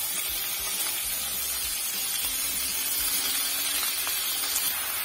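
Aubergine pieces frying in hot mustard oil in an aluminium kadhai: a steady sizzle as the wet pieces hit the oil, with more pieces tipped in from a plate.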